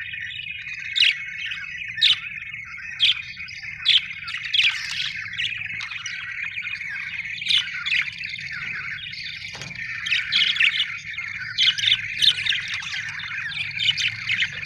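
Budgerigars chattering: a continuous warbling twitter broken by sharp, louder chirps, about one a second at first and in quick clusters later on.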